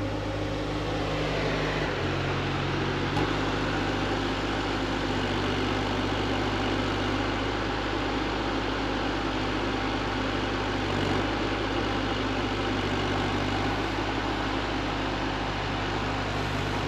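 Diesel engine of a large JCB excavator idling steadily, with a slight change in its low note about two and three seconds in.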